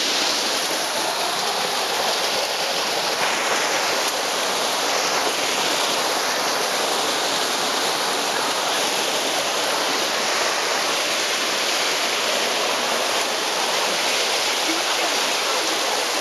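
Rushing water of a rainforest waterfall, a steady unbroken roar.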